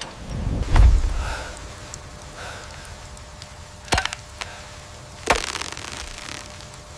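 A heavy, low thud about a second in, then two sharp knocks at about four and five seconds.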